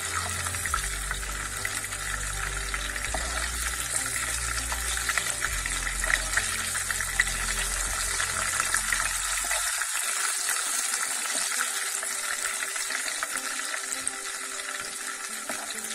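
Pieces of red bell pepper frying in hot oil in a pan: a steady crackling sizzle with many fine pops.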